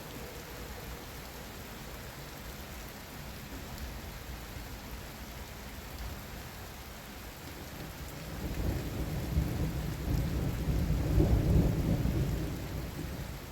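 Steady rain, then about eight seconds in a low rolling thunder rumble swells up, peaks, and dies away near the end.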